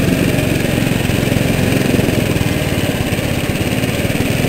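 Small garden tractor engine running steadily, a fast even pulsing with no change in speed.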